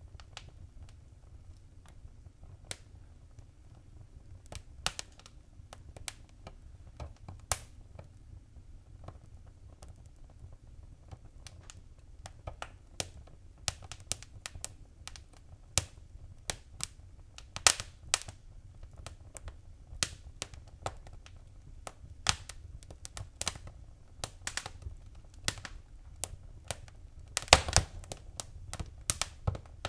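Wood fire crackling: irregular sharp pops and snaps over a low steady rumble. The pops come thicker after about twelve seconds, with the loudest burst of crackles near the end.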